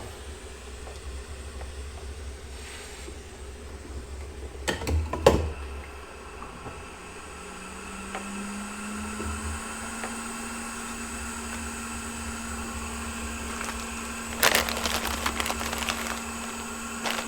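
Steady hum of a fan-driven bench tool, most likely a hot-air rework station used to desolder a chip from a circuit board. A faint tone in the hum rises slightly about halfway through and then holds. Short bursts of clicking and clatter come about five seconds in and again near the end.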